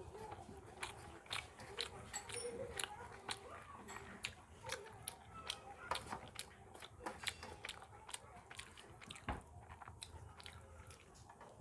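Close-miked eating sounds of rice mixed with curry and eaten by hand: wet chewing and lip smacks, many short sharp clicks a few times a second, and fingers squishing and working the rice on a metal plate.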